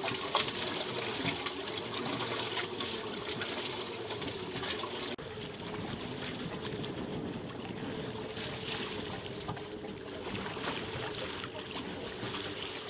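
Water rushing and trickling along the hull of a small sailboat under way. A steady hum wavers slightly in pitch underneath.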